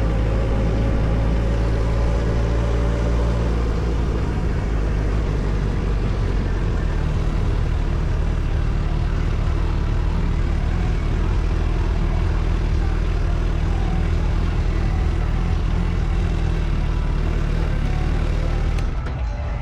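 Suzuki Hayabusa's inline-four engine running steadily, with a constant rush of noise over its low note.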